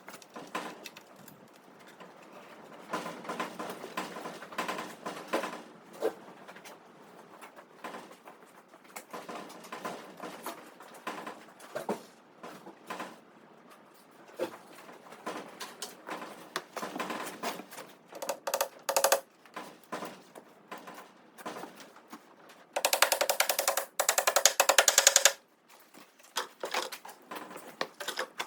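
Workshop clatter: scattered knocks and clicks of wood and tools being handled. A small power tool runs briefly twice, the second time for about two seconds near the end.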